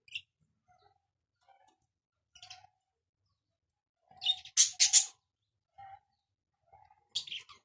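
Budgerigars chirping in short, sharp bursts, with the loudest flurry of high chirps about four seconds in and a few more near the end.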